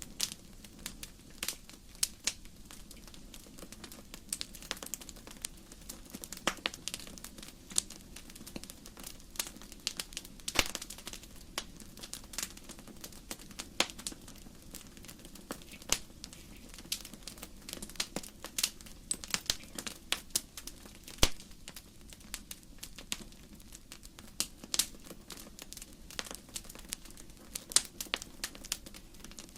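Wood fire crackling: burning logs give off irregular sharp pops and snaps over a soft steady hiss.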